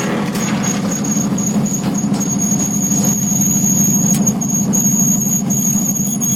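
NASCAR truck's V8 engine running at a steady pitch, heard from inside the cab, with a thin high-pitched whine that comes and goes over it.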